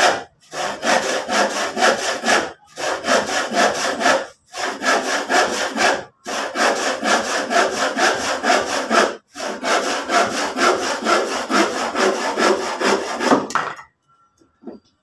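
Hand saw cutting through a piece of used wooden lumber in rapid back-and-forth strokes, with a few brief pauses. The sawing stops about a second before the end.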